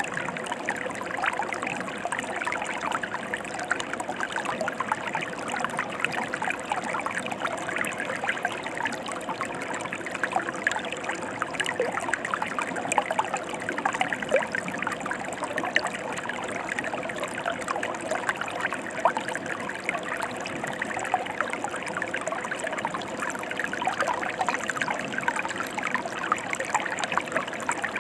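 Flowing stream water: a steady rush with many small splashes and trickles throughout.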